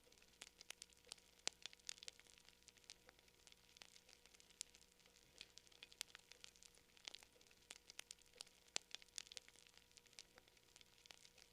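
Campfire crackling faintly, with irregular sharp snaps and pops several times a second.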